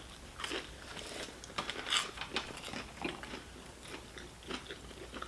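Chewing and biting into chicken nuggets: a string of irregular soft crunches and wet mouth clicks.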